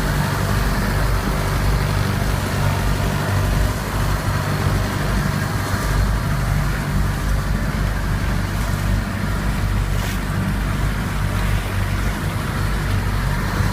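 Engine running steadily at an even speed, a low hum with a rushing, wind-like noise over it.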